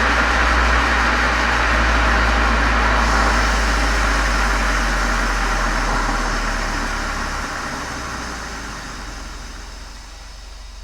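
Exhaust and engine of a Volkswagen Golf 7 GTI's turbocharged 2.0-litre four-cylinder through a Cox aftermarket muffler and chamber, heard from outside the car. It is loud and steady at first with a deep drone, then fades away steadily over the last few seconds, the drone dropping in pitch about seven seconds in.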